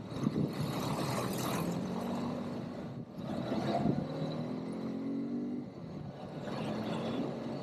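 ATV engine running under way, its pitch rising as it revs up through the middle and falling away as the throttle eases, over a steady rough noise of riding.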